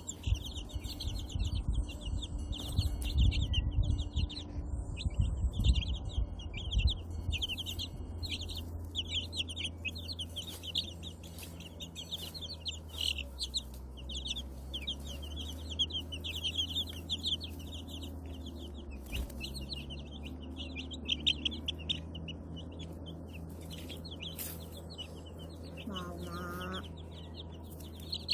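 Newly hatched white silkie chicks peeping continuously, a dense chorus of quick high chirps. Low rumbling thumps sound through the first several seconds.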